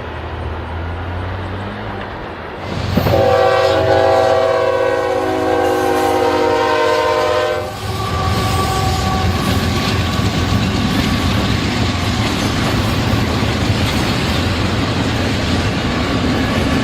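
Locomotive approaching with its engine rumbling, then one long horn blast of several notes sounded together, lasting about five seconds. The train then rolls past with steady wheel noise and clickety-clack over the rail joints.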